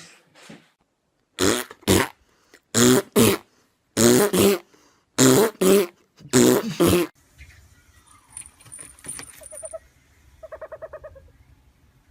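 An animal calling in short, loud, pitched bursts, mostly in quick pairs, about ten calls in five seconds. Fainter sounds follow, with a high beeping tone and a brief rapidly pulsing call near the end.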